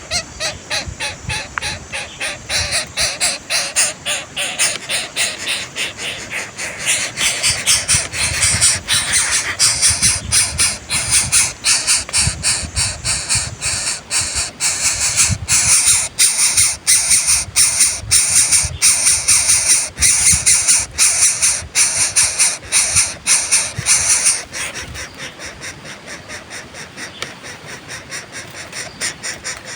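Coucal nestlings calling in a rapid, harsh series of several calls a second, the begging of chicks being fed at the nest; the calls grow louder a few seconds in and die down near the end.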